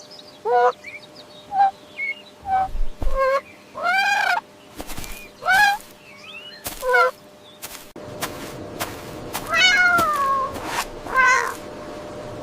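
A cat meowing repeatedly: about nine short calls that rise and fall in pitch, with a longer, drawn-out meow about ten seconds in.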